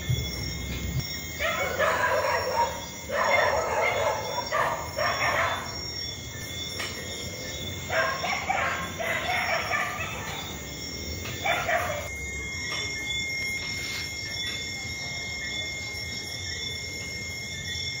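Loud bird calls in bursts of about a second each: three close together near the start, then two more a few seconds later, over a steady high thin tone.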